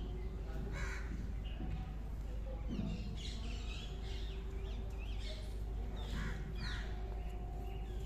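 Birds calling outdoors: a handful of short calls a second or two apart, some falling in pitch, over a steady faint hum.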